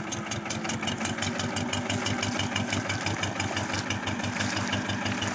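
Tractor diesel engine running steadily, with an even, rapid chugging beat.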